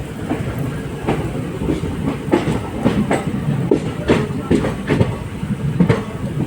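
Train wheels clattering over rail joints, irregular sharp clicks a few times a second over a steady low rumble from a moving ICF passenger coach.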